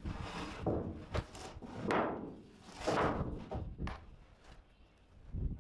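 A series of knocks and thuds from wooden 2x4 boards being handled and fitted together while building shelves, about six or seven separate impacts.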